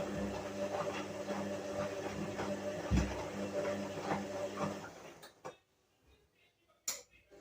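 Whirlpool washing machine running with a steady motor hum and faint ticking; the hum dies away about five seconds in, leaving near silence broken by one sharp click near the end.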